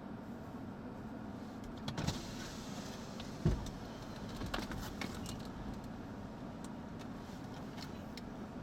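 Steady low noise of a vehicle on the road, with a few sharp knocks and rattles, the loudest about two and three and a half seconds in.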